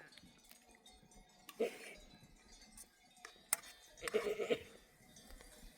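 Sheep bleating in a grazing flock: a short bleat about one and a half seconds in and a longer, wavering bleat about four seconds in, with a sharp click between them.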